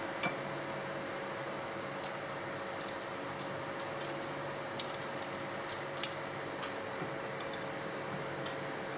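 Scattered light clicks and clinks of small hard parts being handled and set down, over a steady hiss and faint hum.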